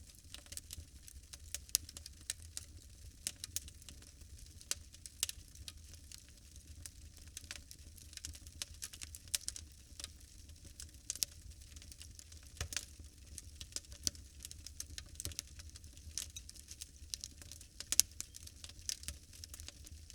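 Fire crackling: irregular sharp pops and snaps over a low steady rumble, with a louder pop about two seconds in and another near the end.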